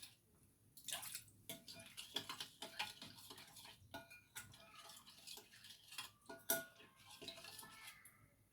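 Faint stirring of a wet spice mixture: a utensil clicking and knocking against the dish with light clinks, some ringing briefly.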